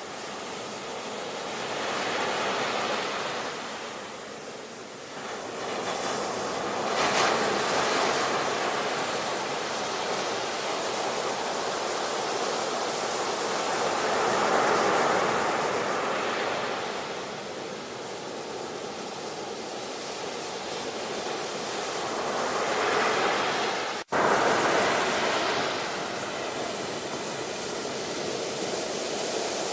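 Ocean surf: waves breaking and washing in, swelling and ebbing every several seconds. The sound cuts out briefly about three quarters of the way through.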